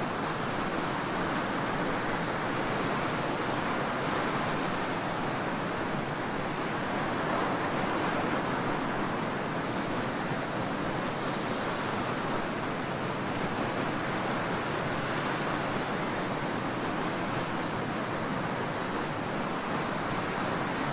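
Ocean surf washing steadily onto a tropical beach, an even rush of water that swells a little about seven or eight seconds in.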